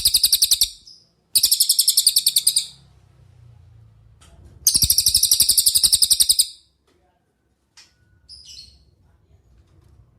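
Cililin birdsong: loud, high-pitched rapid trills of evenly repeated notes, three phrases each one to two seconds long, followed by a couple of short single chirps.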